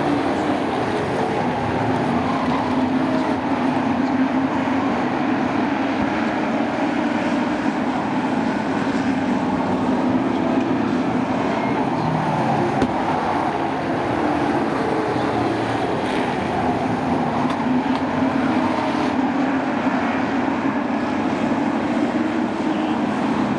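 A field of sport trucks racing on a short oval track, several engines running hard at once, their pitch rising and falling as the trucks circle and pass.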